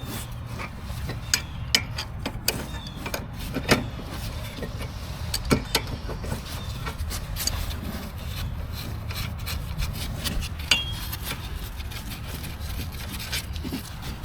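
Hand tools working on a car's front brake: scattered sharp metallic clicks and scraping while the caliper bracket is unbolted and worked off, over a steady low hum.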